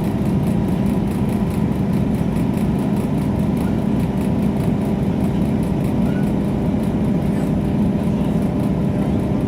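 Steady running drone of a moving passenger train heard from inside the carriage: a constant engine hum over rumbling running noise.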